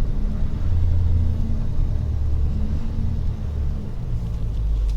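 Rollback tow truck driving, heard from inside the cab: a steady low engine and road rumble.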